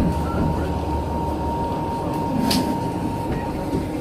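Running noise inside a new Chinese-built sleeper carriage: a steady rumble of the train on the rails, with a thin steady high tone over it. A short sharp click about two and a half seconds in.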